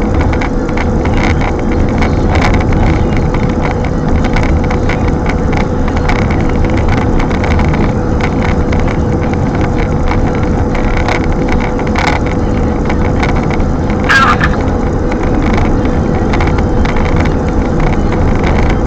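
Strong wind rumbling and buffeting against the microphone in gusts, with a faint steady hum underneath.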